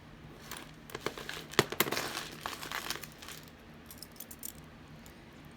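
Crinkling plastic, with sharp little clicks from jewelry being handled, busiest in the first three and a half seconds.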